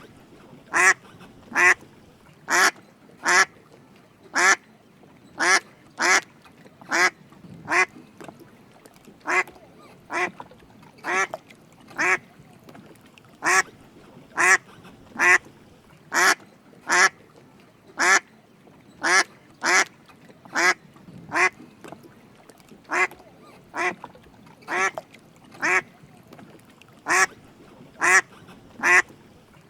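Drake mallard quacking: short, clipped quacks repeated over and over, about one a second with slightly uneven gaps, some louder than others.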